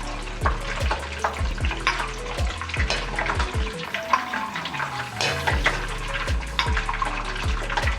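Hot oil sizzling and crackling in a frying pan, with clicks and scrapes of a metal ladle, over background music with a steady beat.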